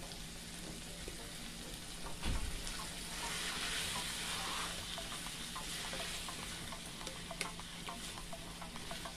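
Ackee and saltfish sizzling in a frying pan as it is stirred. The sizzle grows louder about three seconds in, with one knock about two seconds in and small clicks against the pan in the second half.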